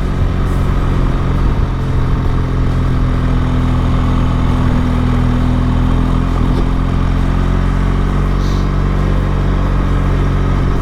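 Motorcycle engine running steadily under way at a near-constant speed, its pitch dipping slightly about six and a half seconds in.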